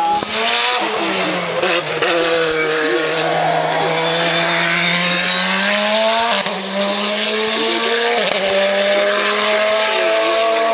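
Hillclimb race car engine under hard acceleration, its pitch climbing slowly, dropping once on an upshift about six seconds in and then climbing again.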